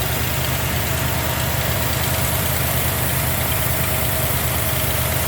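Freshly rebuilt AMC 360 V8 with Holley EFI fuel injection idling steadily, running smooth and quiet.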